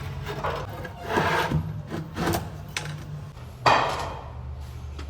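Wood being handled and knocked: a few knocks and scrapes, the loudest one about two thirds of the way through, over a steady low hum.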